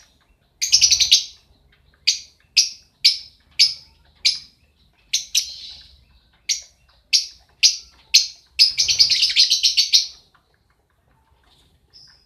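Lovebird calling: a short burst of rapid shrill chatter, then a string of single sharp chirps about two a second, then a longer run of rapid chatter lasting over a second near the end.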